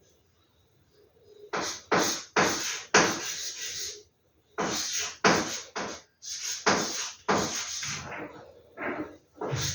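Paper rustling and being handled in short bursts of crinkling and scraping, as large posters and their packaging are moved and sorted. The bursts begin about a second and a half in, after a quiet start.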